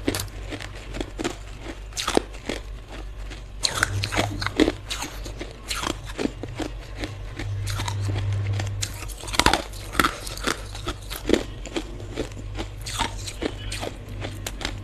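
Hard ice being bitten and chewed close to the microphone: irregular sharp crunches, one after another, over a low steady hum.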